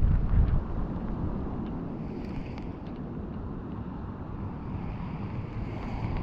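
Steady rain and wind noise on the microphone, with a louder low rumble of wind buffeting in the first half-second.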